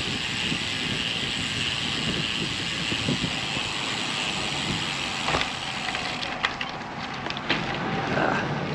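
Steady wind and tyre noise from a road bicycle in motion, easing about six seconds in, followed by a few short sharp clicks.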